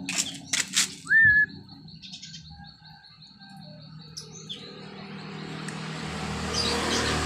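Pet songbird calling: a few short sharp chirps, one upswept whistled note about a second in, then a fast trill of repeated high notes for about three seconds. A hiss grows louder over the last two seconds.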